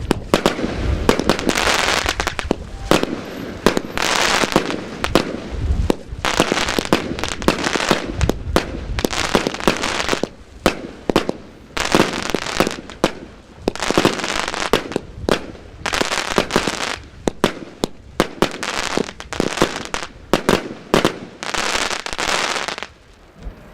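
Royal Fireworks 'House of Lightning' firework going off: a rapid string of sharp bangs, each followed by a hissing crackle, dying away near the end.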